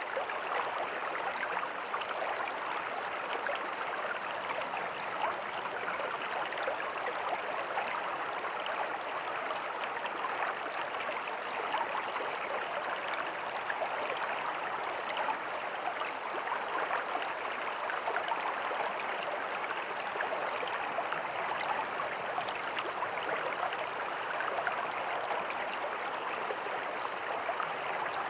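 Small creek with a tiny waterfall, water running and splashing over rocks in a steady babble.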